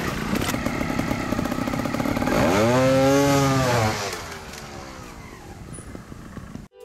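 Trials motorcycle engine revving hard, its pitch sweeping up and back down about two and a half seconds in, then running quieter until the sound cuts off abruptly near the end.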